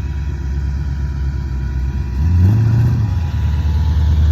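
Ford Mustang Cobra V8 rumbling low as it rolls by, with one throttle blip that rises and falls about halfway through.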